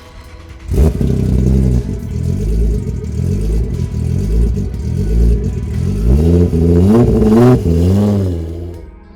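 Heavily modified 4-litre Nissan GT-R drift car engine revving hard, starting suddenly about a second in, its pitch climbing and dropping again and again as the throttle is worked and gears change, then dying away near the end.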